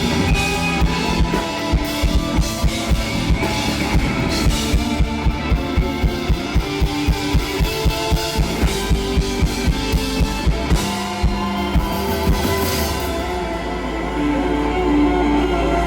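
Live rock band playing an instrumental passage: drum kit keeping a steady beat under guitars. Near the end the drums drop out, leaving a sustained low bass drone.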